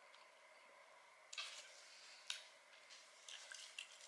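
Near silence with faint mouth noises of someone chewing spaghetti with her mouth closed: a few soft wet smacks and a small click about two seconds in.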